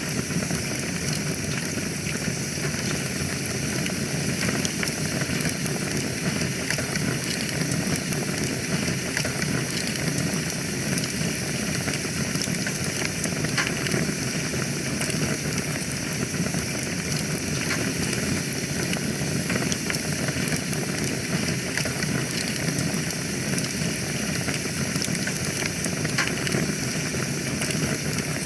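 Wood fire in a fireplace crackling: a steady hiss with many small, scattered pops and snaps.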